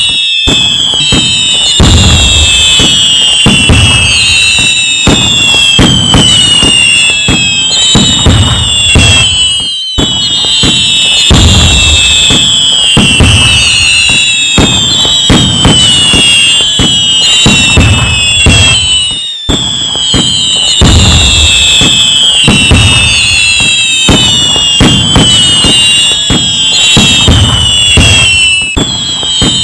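Fireworks going off continuously: many whistling shells or rockets, each whistle falling in pitch, over repeated booms and crackling bursts. The same stretch repeats about every nine and a half seconds, as a loop.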